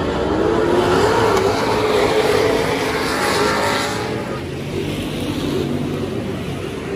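Dirt-track super stock race car engines running at speed, with the engine note climbing early on and easing off after about four seconds.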